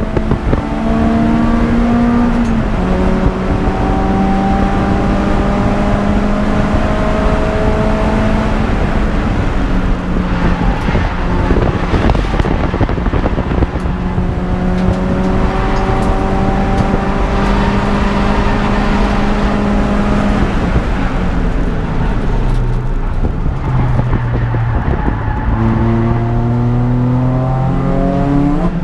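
Peugeot 206 GTI's four-cylinder engine driven hard, its note climbing slowly through each gear with steps where gears change. The revs drop low about twenty-two seconds in and climb steeply again near the end, over steady road and wind noise.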